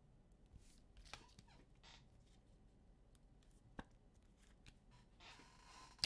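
Quiet handling of trading cards: a few soft clicks as cards are flicked through, then a brief rustle near the end.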